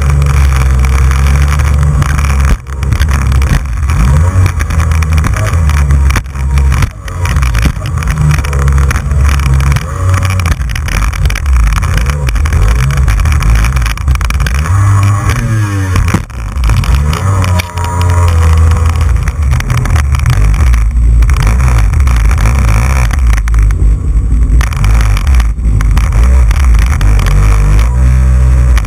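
Jet ski engine running at speed, its pitch rising and falling as the throttle changes, under heavy low wind rumble on the camera microphone, with a few sharp breaks where the hull slams on waves.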